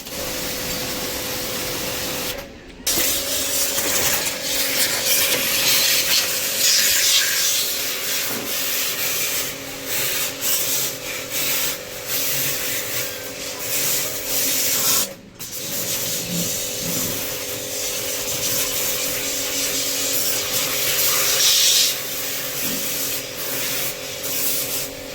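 Small electric pressure-washer pump running with a steady hum while its water jet hisses against the blocked fins of an air conditioner's indoor coil during cleaning. The sound cuts out briefly twice.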